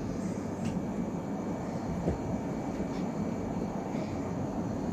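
Steady low rumble of a passenger train heard from inside the carriage as it pulls out of the station, with a few faint clicks.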